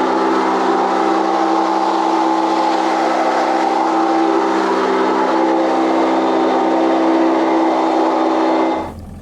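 Boat engine running steadily at speed, with a wide rushing noise of water and wind over its steady drone; it cuts off abruptly near the end.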